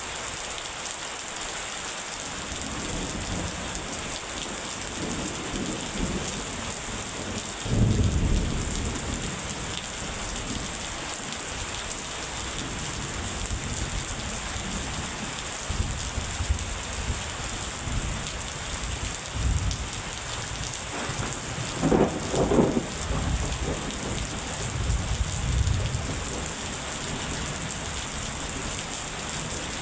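Steady rain hissing with rolls of thunder rumbling under it, the loudest about eight seconds in and again about twenty-two seconds in.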